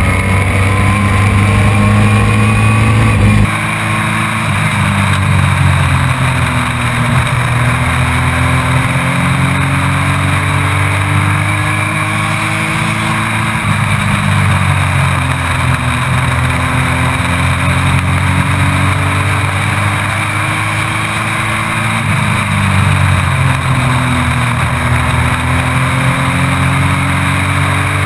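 Race truck engine heard from onboard, its pitch climbing in long glides under acceleration and dropping back off the throttle, several times over, under a steady rush of wind and road noise. The deepest part of the engine sound drops away suddenly about three seconds in.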